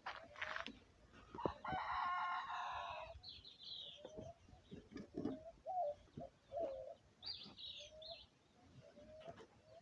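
A rooster crows once, beginning about a second and a half in and lasting nearly two seconds. Hens cluck in short repeated calls around it, with a few higher bird chirps.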